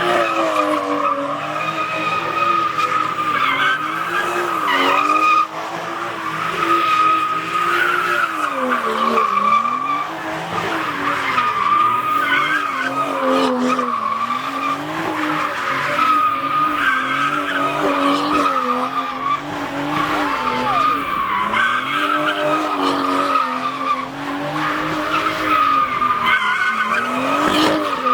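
Car tyres squealing continuously while the engine revs up and down over and over, as in a burnout or donut session.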